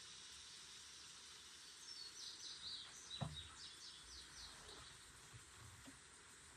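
Faint background with a bird chirping a quick run of short high notes from about two seconds in, and a single knock a little after three seconds.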